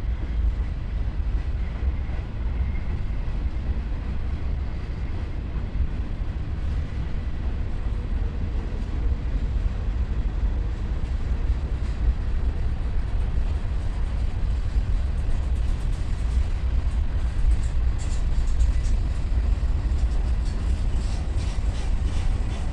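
Freight train's cars rumbling slowly along the track, a steady low rumble of wheels on rail, with faint sharp ticks in the last few seconds.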